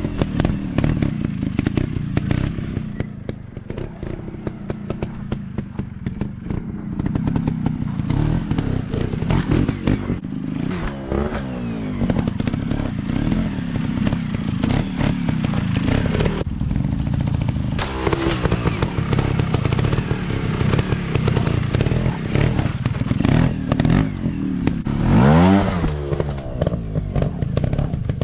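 Small trail motorcycle engines running on rough ground, the throttle blipped into several rising revs, with a steady run of clattering knocks from the bikes.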